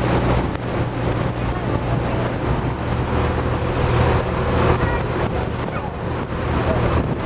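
A sightseeing boat's engine drones steadily, with wind on the microphone and water rushing around the hull.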